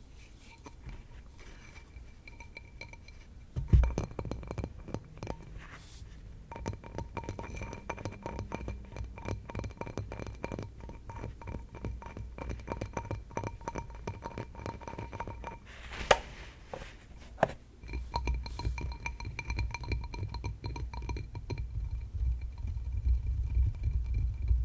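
Fast tapping on a hard object that rings with a steady tone under the taps, with a sharp knock about four seconds in and two more about two-thirds of the way through. Heavier, lower thuds join the tapping in the last stretch.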